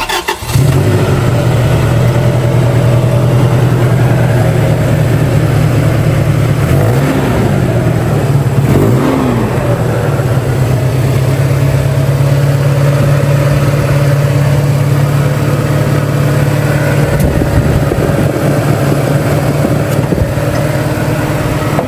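1997 Toyota Tacoma pickup's engine running steadily after starting, with two brief revs about seven and nine seconds in.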